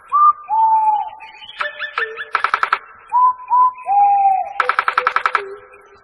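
Bird calls: clear whistled notes that bend down at their ends, alternating with fast rattling trills. The pattern repeats about twice.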